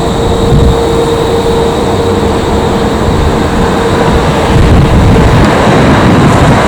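Boeing 787-9 jet engines running with a steady whine over a heavy, fluctuating low rumble, growing louder near the end.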